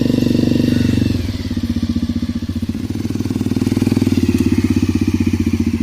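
Motorcycle engine running, loud, with a rapid even beat of firing pulses; about a second in the revs drop, then slowly climb again.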